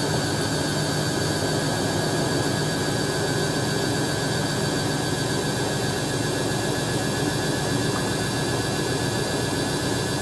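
Hoover A3060 Electronic 1100 washing machine running, its motor and drum giving a steady, even whine and rumble with no change in speed.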